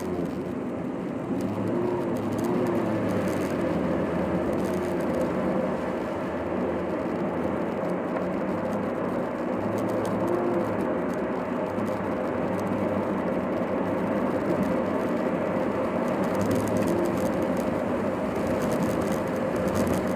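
Car interior noise while driving: steady road and engine noise with the engine hum rising and falling in short swells, sped up to double speed.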